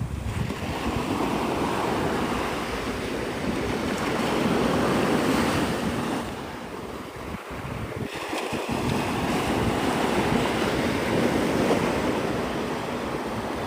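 Gulf surf washing onto the beach, its noise swelling and easing twice, with wind buffeting the microphone.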